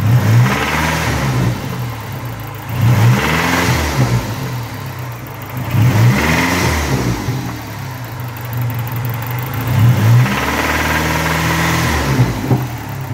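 Dodge Neon's swapped 2.4-litre turbocharged twin-cam 16-valve four-cylinder idling and revved four times, the last rev held longest. It runs with an internal engine noise that the owner fears means the engine, or its connecting rods, is failing.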